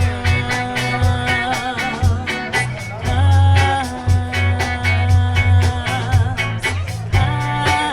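Live band playing a song, with a steady drumbeat, bass and sustained melody notes, in an instrumental stretch without vocals.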